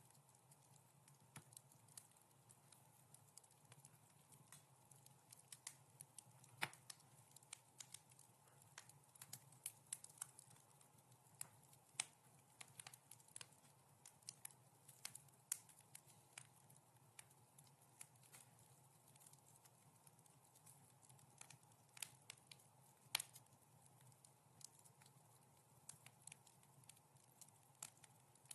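Wood fire crackling softly: irregular sharp pops and snaps, a few louder than the rest, over a faint steady low rumble.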